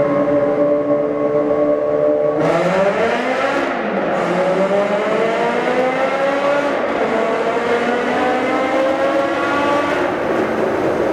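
Ferrari F430's V8 with cat-delete straight pipes running steadily, then opening up about two and a half seconds in. The revs climb, dip briefly at a quick upshift, then climb again for several seconds before falling near the end.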